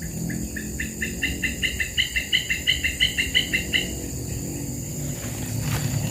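A bird calling a fast series of about twenty short, clear notes, roughly six a second, growing louder and then stopping abruptly. A steady high buzz of insects runs behind it.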